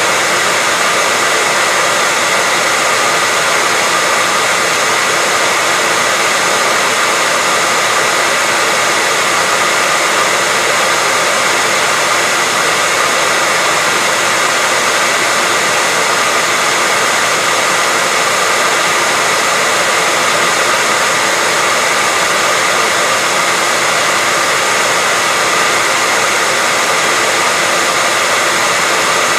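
Hair dryer running continuously as white noise for baby sleep: an even, unchanging rush of air with a faint steady whine from the motor.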